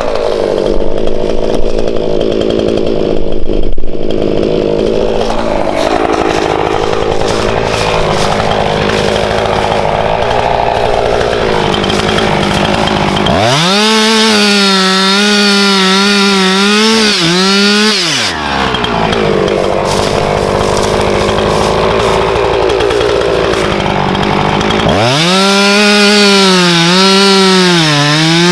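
Husqvarna two-stroke chainsaw cutting through firewood logs, its engine note low and rough while the chain is in the wood. Twice, about halfway through and again near the end, it runs at a high, clear whine, with the note dipping now and then.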